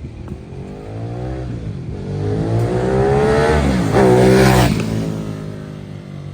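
Ducati Monster's V-twin through a Termignoni exhaust accelerating hard, its pitch climbing and dropping at two quick upshifts. It is loudest about four seconds in as it passes, then falls in pitch and fades.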